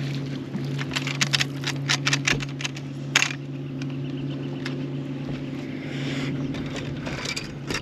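Steady low hum of a boat motor, with a run of sharp clicks and rattles over it about one to three seconds in and a few more later.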